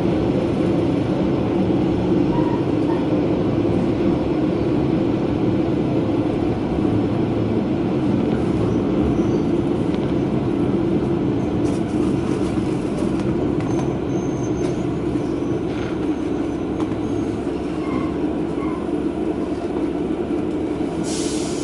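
Diesel railcar running steadily along the line, heard from inside the car: a continuous engine and wheel-on-rail rumble.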